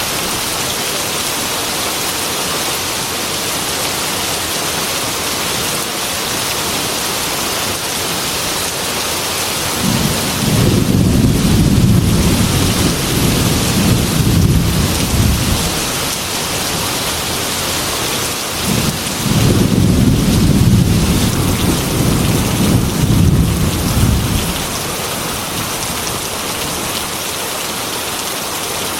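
Heavy rain with a steady hiss, falling on a glass window, and two long rolls of thunder, the first about ten seconds in and the second soon after it.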